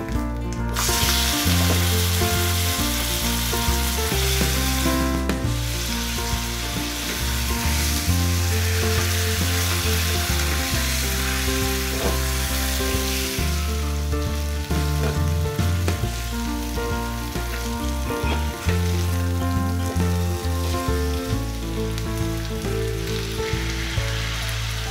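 Spice masala and chicken pieces sizzling in hot oil in a nonstick frying pan while being stirred with a spatula. The sizzle comes in strongly about a second in and fades noticeably about halfway through. Soft background music plays throughout.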